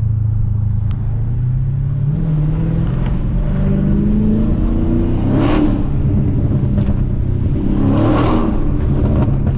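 Straight-piped supercharged Hellcat HEMI V8, mufflers and resonators deleted, running loud and being revved: the engine note climbs from about two seconds in, with two short, louder blasts of exhaust around five and a half and eight seconds in.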